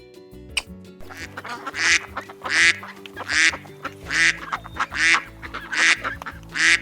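Duck quacking, a run of about seven loud quacks a little under a second apart starting about two seconds in, over background music.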